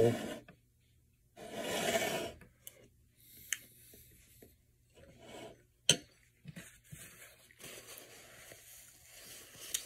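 A person chewing a mouthful of baked beans: quiet wet mouth sounds with a few small clicks, and a louder breathy sound about two seconds in.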